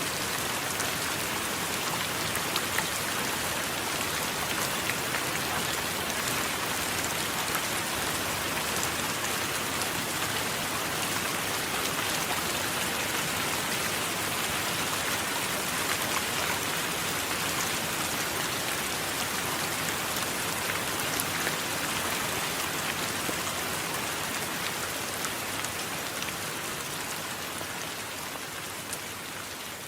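Steady rain falling, an even hiss flecked with faint individual drop ticks, easing slightly in loudness near the end.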